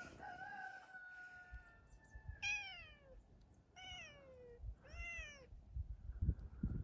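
A domestic cat meowing four times: one long, drawn-out meow, then three shorter meows that drop in pitch. Faint rustling and soft knocks come near the end.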